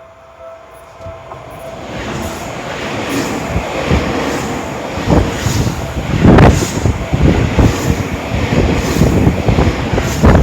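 Seibu Ikebukuro Line electric train passing over a level crossing, growing louder over the first few seconds and then running loud, with a regular clack of wheels over rail joints about twice a second. The crossing's warning bell is heard faintly at the start before the train drowns it.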